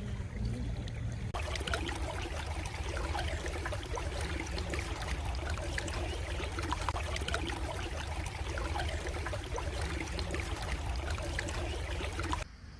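Stream water trickling and babbling steadily; it grows fuller about a second in and drops away abruptly near the end.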